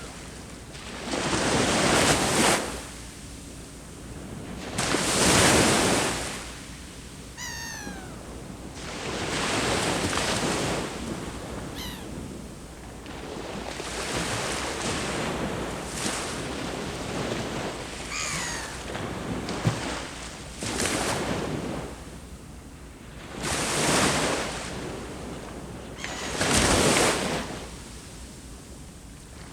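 Sea waves breaking and washing up the shore in slow surges every few seconds. A bird calls a few times over them, each call a quick run of falling notes.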